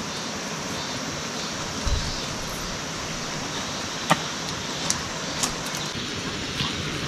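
Mountain valley stream rushing steadily over rocks, with a low thump about two seconds in and a few sharp clicks in the second half.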